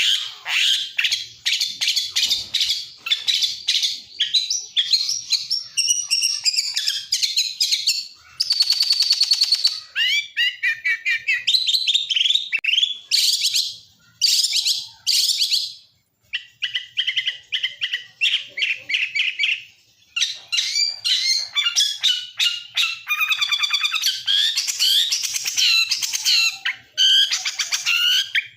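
A lacer songbird singing non-stop in rapid, varied strings of high chirps and trills, with a buzzy trill about eight seconds in and two brief pauses in the middle: the continuous 'gacor' song used as a training recording for other birds.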